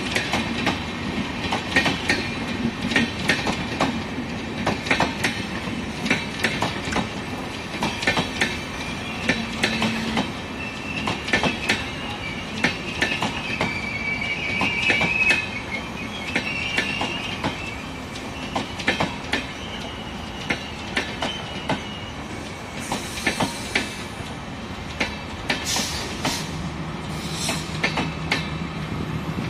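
Passenger coaches rolling past at low speed. The wheels click and clatter over rail joints in an uneven rhythm. About halfway through, a high, wavering squeal comes from the running gear for several seconds.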